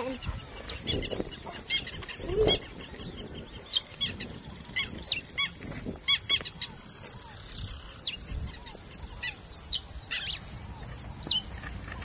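Small birds chirping: short high calls repeated irregularly, over a steady high-pitched hiss.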